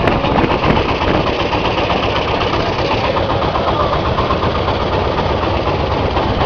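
Farm tractor engine chugging steadily at an even, fast beat, heard by riders aboard as it drives along.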